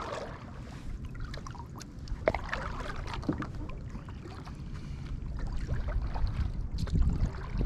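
Kayak paddling: the paddle dipping and dripping water, with small splashes and knocks over a low rumble that grows near the end.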